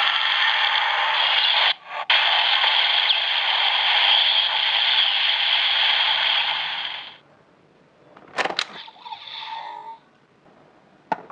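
DX Grease Blizzard Knuckle toy's small speaker playing a long, noisy sound effect with a brief break about two seconds in, cutting off about seven seconds in. Near the end come two sharp clicks of the toy's plastic mechanism and a faint short sound.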